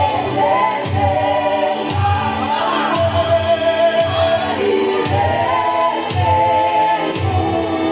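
Gospel music: a choir singing over a steady beat of about one low thump a second.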